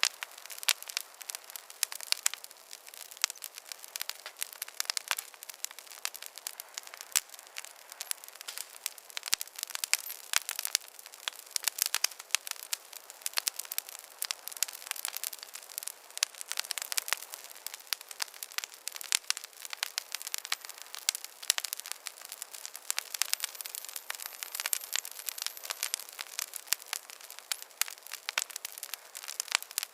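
Wood campfire crackling steadily: many irregular sharp pops and snaps over a light hiss.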